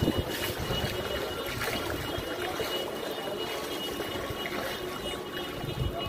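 Flood water running, a steady rushing noise with a low rumble underneath.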